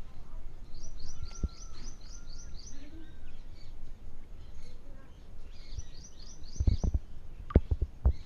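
Bird calling in two quick runs of short, high chirps, about eight a second, with a few dull knocks near the end.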